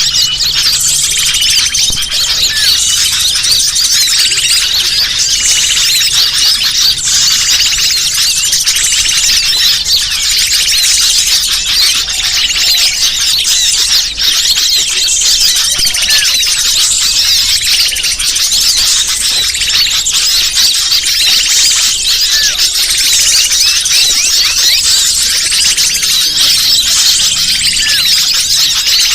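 Dense, unbroken chorus of many small birds chirping and squeaking at a high pitch: a bird-lure (pikat) recording used by trappers to draw wild birds in.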